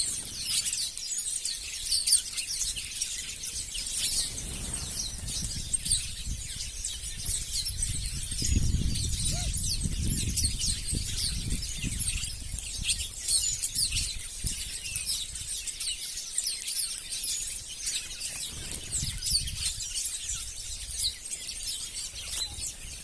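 Many small wild birds chirping at once, a dense overlapping chatter of short high calls. A low rumble rises underneath in the middle.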